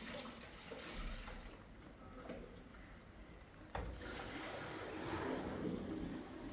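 Running or pouring water that swells about two-thirds of the way through, with a couple of sharp knocks before it.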